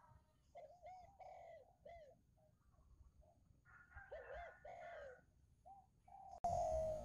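A bird calling faintly: repeated short notes that rise and fall in pitch, in little clusters. Near the end, a louder, steadier sound begins.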